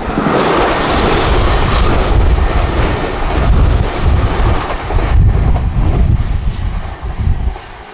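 A train passing at speed: a loud, steady rush of wheel and rail noise with wind buffeting the microphone, dying away about seven and a half seconds in.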